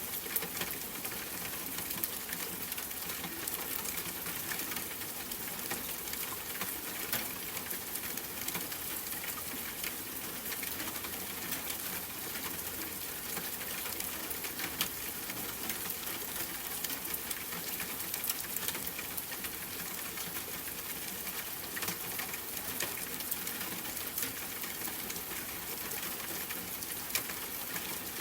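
Steady rain with scattered sharp drop ticks, patter heard from inside a room by the window.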